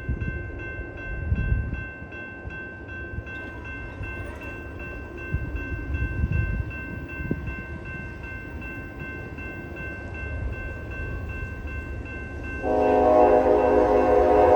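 A General Signals type 2 electronic crossing bell rings in a quick, even rhythm over low wind rumble. About 12 seconds in, a diesel locomotive's air horn starts loud and sustained as the train nears the crossing.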